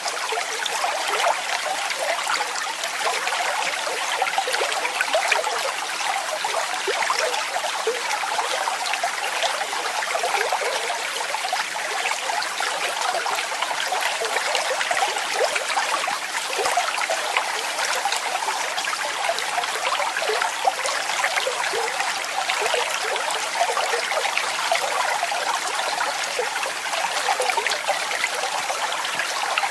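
Waterfall: a steady splashing rush of falling water, full of small splashes and with little deep rumble.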